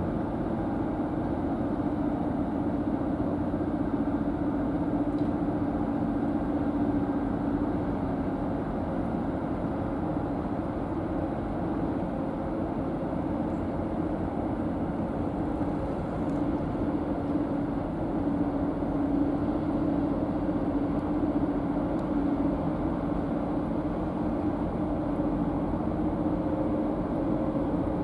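The high-speed car ferry Akane's engines droning steadily, a constant low hum over a noisy rush, with no change in pitch or level.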